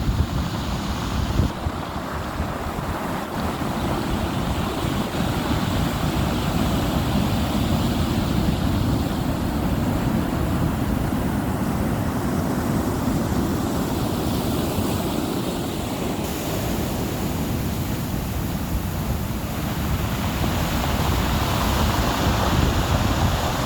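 Rough sea: surf surging and breaking continuously, with strong wind buffeting the microphone as a heavy low rumble.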